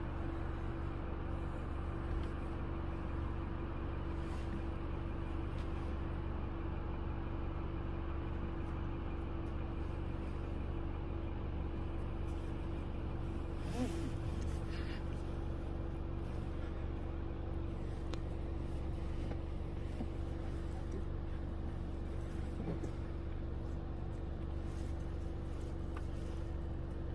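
Steady low hum of an idling vehicle engine, unchanging throughout, with a brief click about fourteen seconds in.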